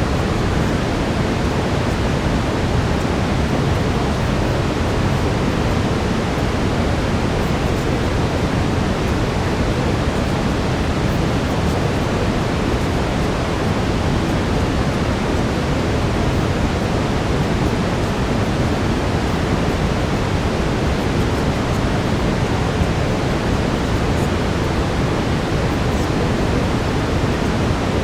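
Steady brown noise: an even, deep rushing hiss that does not change.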